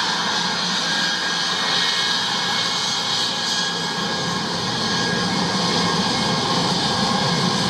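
Jet airliner's engines during landing: a steady roar with a few faint, steady high-pitched whining tones in it.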